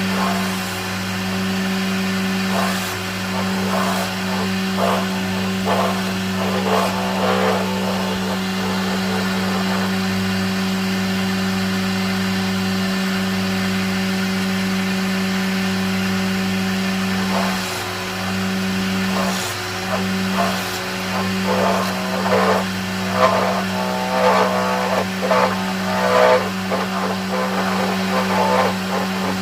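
A woodworking power tool's motor running at a steady pitch. In two stretches, early on and again from about two-thirds of the way through to the end, rougher crackling noise joins it as the tool cuts into wood.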